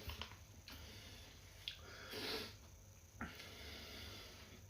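Faint breathing and sniffing close to the microphone, with a few soft clicks.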